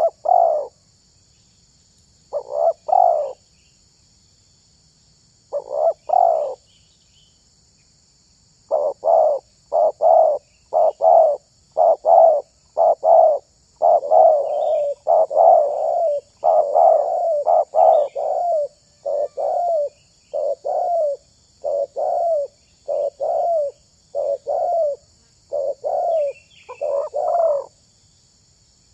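Spotted dove (tekukur) cooing: a few short coo phrases with gaps, then from about nine seconds a long, quick run of coos that stops shortly before the end.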